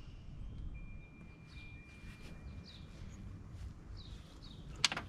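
Small birds chirping, a string of short, high, falling chirps over a quiet outdoor background, with a faint steady high tone for a couple of seconds. A few sharp clicks come near the end.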